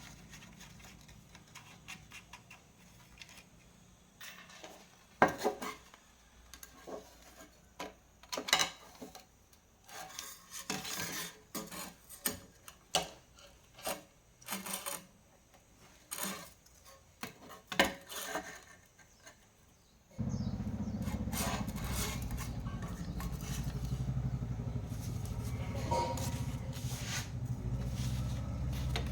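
Scattered metallic clinks, taps and scrapes of small tools and parts being handled. About two-thirds of the way in, a steady low hum starts abruptly and keeps going.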